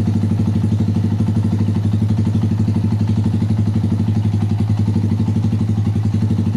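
Honda TMX 125's single-cylinder four-stroke engine idling steadily, with an even, rapid pulsing beat.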